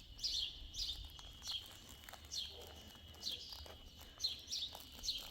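Small birds chirping: short, high, downward-slurred chirps repeating about once a second, over a faint steady high tone.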